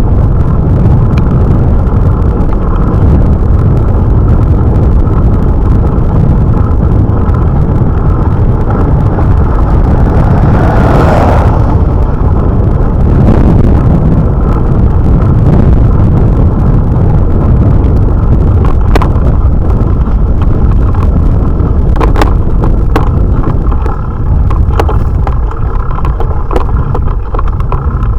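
Wind buffeting an action camera's microphone on a moving bicycle: a loud, steady low rumble. A few sharp clicks come about two-thirds of the way in.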